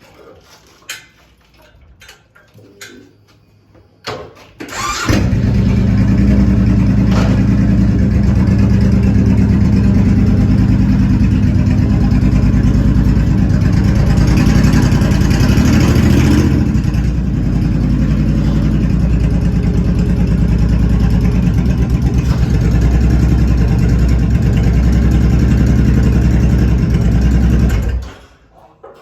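Suzuki Boulevard C90's V-twin engine cranked and started about four seconds in, running at a steady idle with a brief rise in the middle, then shut off about a second before the end.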